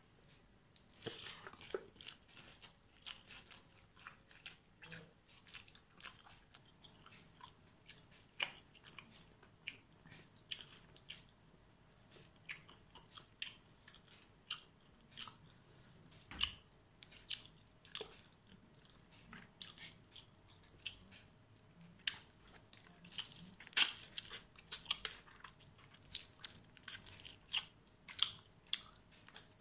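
Close-up chewing of a mouthful of rice and chicken curry: a run of short, sharp mouth clicks, irregular at one or two a second, busiest a little after two-thirds of the way through.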